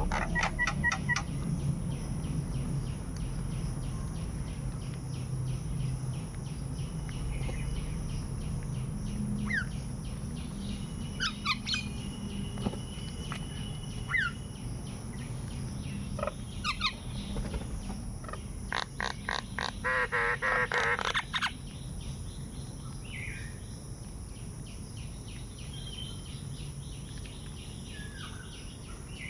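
Several birds chirping and calling in short, scattered notes, with a louder warbling call about twenty seconds in.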